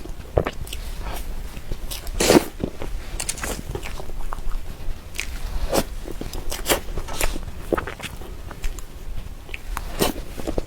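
Close-miked eating of soft cream cake: irregular wet mouth smacks and soft chewing clicks, with one louder smack about two seconds in.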